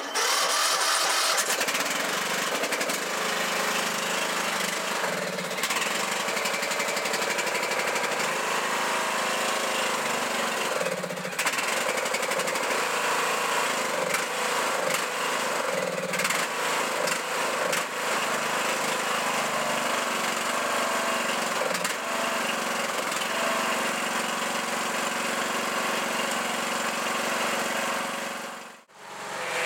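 Murray lawn mower's small gasoline engine running steadily. It is the engine's first run since the fall. The sound starts abruptly at full level and briefly drops out just before the end.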